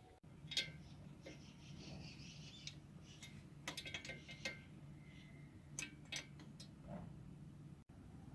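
Faint metallic clicks and clinks of tools and engine parts being handled while a motorcycle engine's top end is assembled, a dozen or so scattered taps over a low steady hum.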